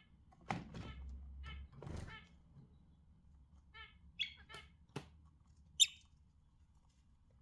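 Budgerigars chirping in short, scattered calls, with one louder, higher chirp a little before six seconds in and a sharp click about five seconds in.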